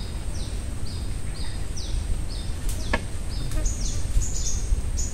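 A bird calling a series of short, high, falling whistled notes, about two a second, over a steady low rumble of wind and water. There is a single knock about three seconds in.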